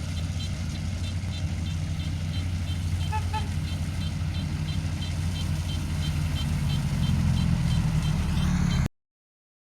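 Combine harvester engine running steadily, with a fast, even high ticking above it and two short beeps about three seconds in. The sound cuts off suddenly near the end.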